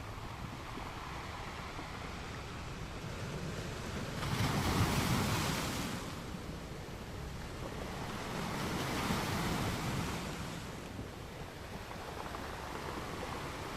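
Ocean waves breaking on a beach over a steady wash of surf: one wave crashes about four seconds in and a smaller one follows around nine seconds in.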